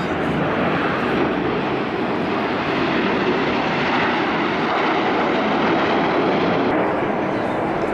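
Steady rushing roar of the Frecce Tricolori's Aermacchi MB-339 jets, single Rolls-Royce Viper turbojets, flying the display; the sound dulls slightly about seven seconds in.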